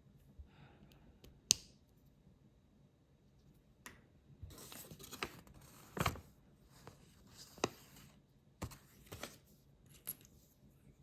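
Small plastic building bricks being handled and pressed together: a series of sharp clicks, the loudest about a second and a half in, with a stretch of rustling in the middle.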